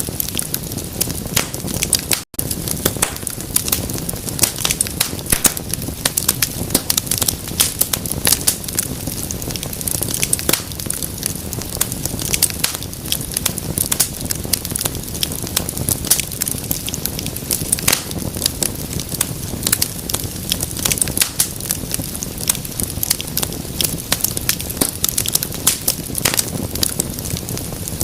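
Wood fire crackling steadily in a fireplace: many quick pops and snaps over a low hiss of burning, with a split-second dropout about two seconds in.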